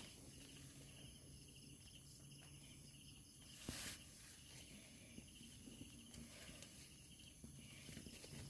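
Faint night-time insects, crickets among them, chirping in a fast pulsing trill over a steady high-pitched insect drone, with one short burst of noise just under four seconds in.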